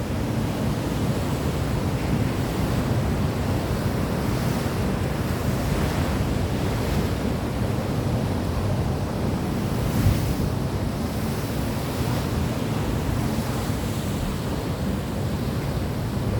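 Steady wash of sea surf with wind buffeting the microphone, and one brief sharp sound about ten seconds in.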